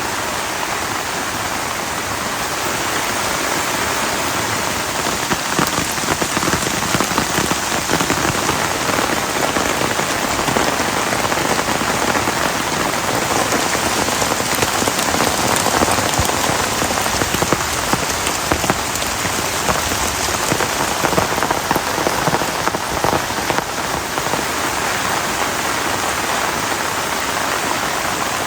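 Heavy rain falling steadily, a dense spatter of individual drops hitting a surface. It grows a little louder about four seconds in and then holds steady.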